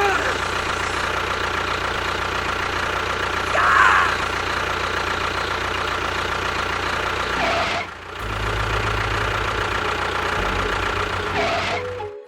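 A motor running steadily with a droning hum, breaking off briefly about eight seconds in and then running on with a deeper hum, with a few short chirps over it.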